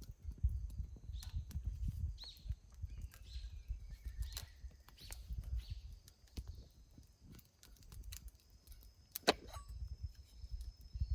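Wood fire crackling: scattered sharp pops and clicks, the sharpest about nine seconds in, over a low rumble like wind, with a faint steady high-pitched whine behind.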